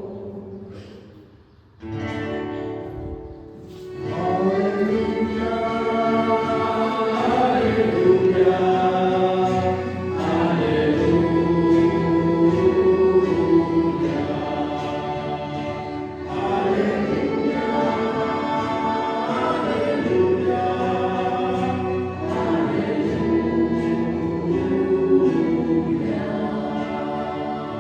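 Church choir singing a slow sacred song with long held notes. The singing drops away briefly about a second in and resumes about two seconds in.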